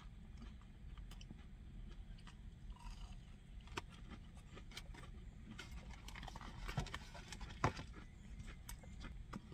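Faint chewing of a crispy breaded chicken strip: scattered small crunches and mouth clicks, one sharper crunch late on, over a low steady hum.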